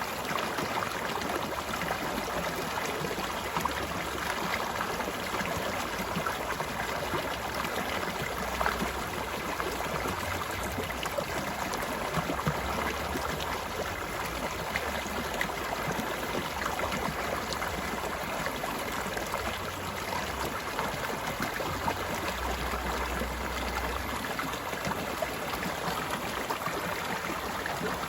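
A forest stream flowing steadily, a continuous rush of water with small splashes, and a low rumble that comes and goes.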